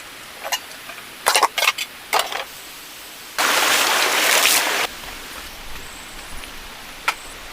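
Steady rain hiss, with a few short clicks and knocks in the first couple of seconds, then a loud burst of hissing noise lasting about a second and a half, and one more click near the end.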